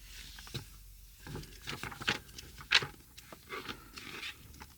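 Scattered light clicks, taps and rustles of items being handled, several short ones spread irregularly over a few seconds.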